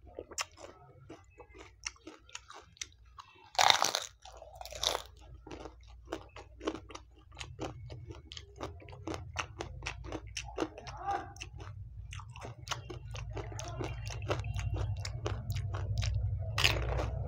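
Chewing and crunching of crisp pani puri shells and green chillies: a steady run of small crunches, with two loud bites about four seconds in and another near the end.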